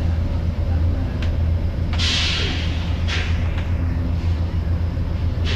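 Sharp bursts of compressed-air hiss from a Volvo B9TL bus: one strong hiss about two seconds in, lasting under a second, and shorter hisses about a second in, just after three seconds and near the end. They sit over the steady low drone of idling diesel buses, with the cooling fan of the Volvo B10BLE in front running.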